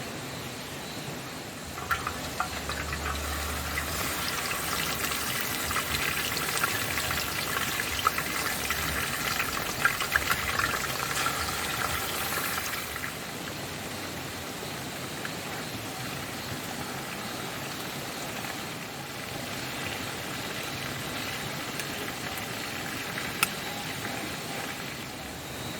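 Steady rush of falling water from a waterfall. For about ten seconds, starting a couple of seconds in, closer water splashes and trickles over it with small irregular clicks, then it settles back to the steady rush.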